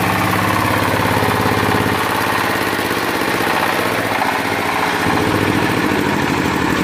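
Diesel engine of a concrete cutting saw running steadily after a crank start, its speed shifting slightly about two and four seconds in.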